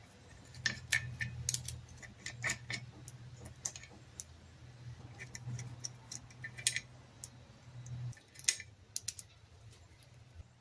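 Scattered light metallic clicks and taps of hand tools and parts during teardown of an antique 1/4 horsepower Western Electric motor, over a low steady hum that stops about eight seconds in.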